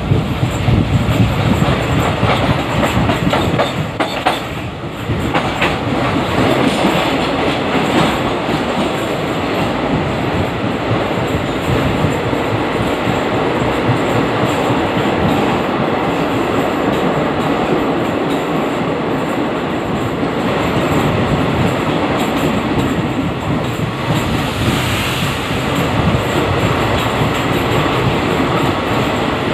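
Express passenger train running through a rail tunnel, heard from an open coach door: a loud, steady rumble and clatter of the wheels on the rails.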